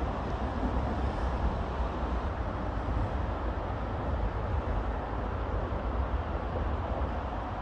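Steady rumble of distant road traffic, with no single vehicle standing out.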